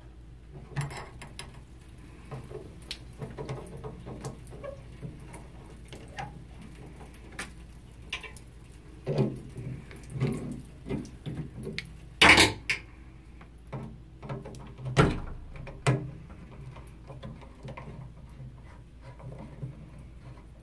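Tools and metal valve parts clicking, tapping and clinking as the Kohler shower valve is put back together. Two sharp knocks stand out, one near the middle and another a few seconds later.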